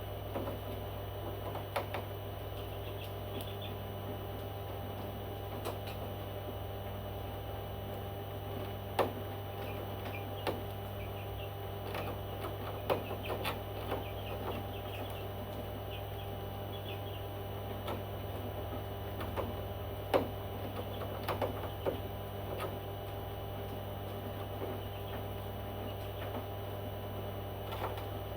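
A steady electrical hum with scattered clicks and taps and faint, short high chirps from a pet parrot.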